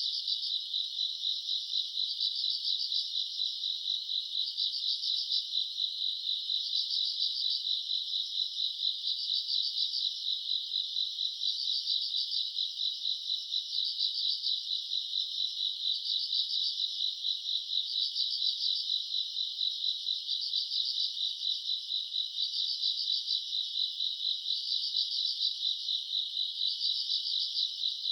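Chorus of crickets and other grass insects: a steady high trill with a pulsing chirp layered over it, repeating about once a second.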